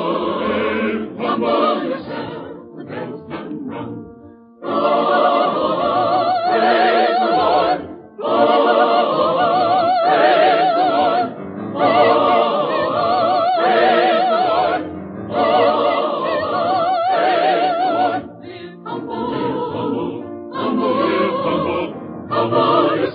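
Choir singing a hymn in held phrases with wide vibrato and short breaks between lines, heard as an old, narrow-sounding radio broadcast recording.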